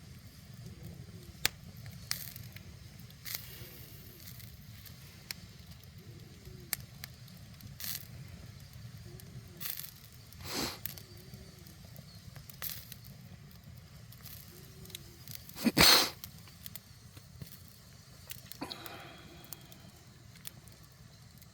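Wood fire under a cast-iron cauldron, crackling with scattered sharp pops over a steady low rumble. Two louder pops or bursts stand out, around a third and three quarters of the way through.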